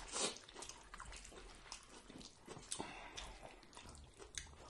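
Close-miked wet chewing and lip smacking of a burrito bowl. Faint, irregular mouth sounds, slightly louder just after the start.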